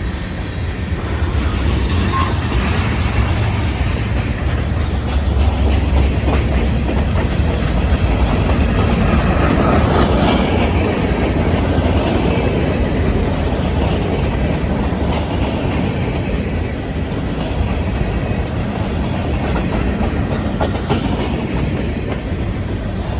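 CPKC freight train rolling past with a steady low rumble, its wheels clicking and clacking over the rail joints.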